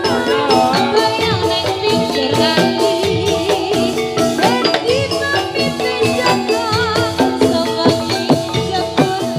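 Javanese gamelan music for a jathilan horse dance: metallophones ring steady struck notes over a busy drum beat, with a wavering melodic line above.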